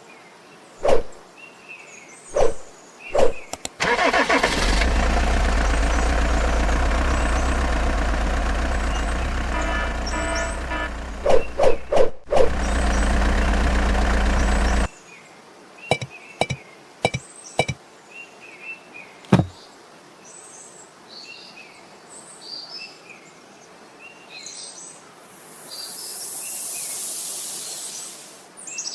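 A motor runs steadily for about ten seconds between scattered knocks, cutting out for a moment about twelve seconds in. After it stops, birds chirp over a few more knocks, and a rushing hiss swells and fades near the end.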